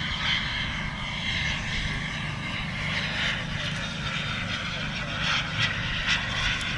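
Turbine jet engine of a radio-controlled model jet running in flight, a steady jet rush that swells and eases slightly.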